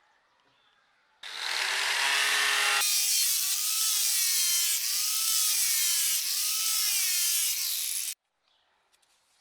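Electric power tool running under load: a continuous grinding or cutting noise whose motor pitch dips and recovers as the work is pressed into it. It starts abruptly about a second in, changes character sharply about three seconds in, and cuts off abruptly near the end.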